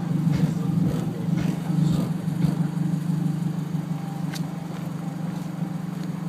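Ford Focus ZX4 engine running steadily, fitted with a K&N aftermarket intake and a custom exhaust; a little louder over the first few seconds, then settling to an even drone.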